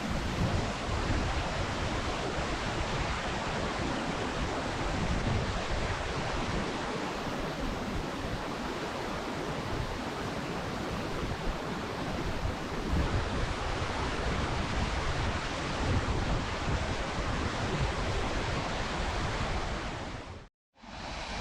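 Steinsdalsfossen waterfall rushing as a steady roar of falling water, with gusts of wind buffeting the microphone. The sound cuts out for a moment near the end, then comes back.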